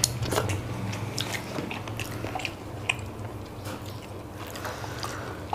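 Close-miked chewing and mouth smacking as chilli chicken and rice are eaten by hand: scattered short wet clicks over a faint low hum.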